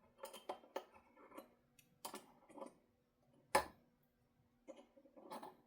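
Irregular small clicks and taps of guitar hardware and hand tools being handled, with one sharper knock about three and a half seconds in.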